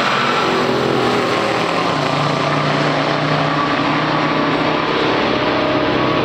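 Two big-block V8 muscle cars, a 1969 Plymouth Barracuda with a 440 and a 1970 Pontiac GTO with a 455, running at full throttle down the drag strip in a quarter-mile pass. Their engines make a loud, steady drone.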